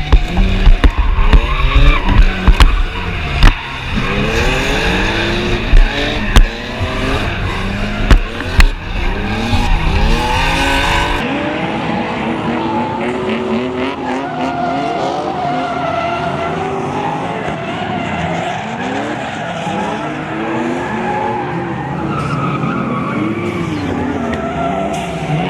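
Drift cars on track, their engines revving up and down and sometimes overlapping, with tyres squealing. Several sharp bangs come in the first ten seconds.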